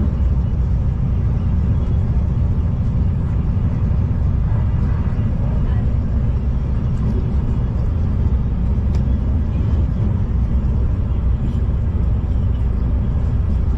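Steady low rumble of a V/Line regional train running along the line, heard from inside the carriage, with a few faint clicks here and there.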